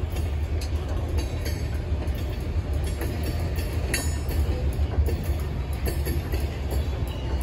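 Freight train's covered hopper cars rolling past: a steady low rumble of steel wheels on rail, with scattered clicks along the way.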